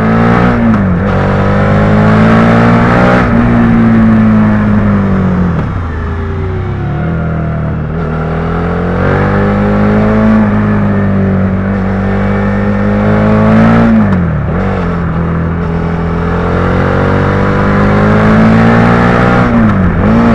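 Suzuki SV650 V-twin engine under way, pulling at steady revs. The revs drop sharply and climb back about four times, as the throttle comes off or a gear changes through the corners.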